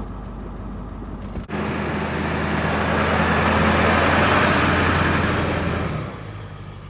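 Road vehicle driving: steady engine hum under tyre and road noise. The noise starts abruptly about one and a half seconds in, grows louder to a peak, then fades again.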